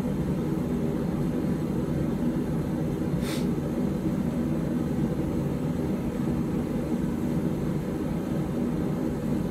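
A blacksmith's forge running steadily as a steel knife blade reheats in it, a low even rushing noise. One light click about three seconds in.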